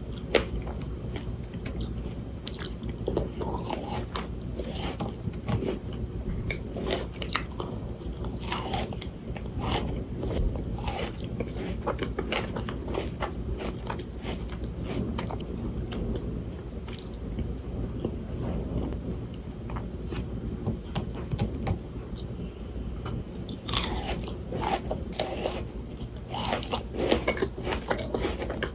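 Close-miked crunching and chewing of frozen Shine Muscat grapes: the icy flesh cracks and crackles between the teeth, with clusters of crisp bites a third of the way in and again near the end.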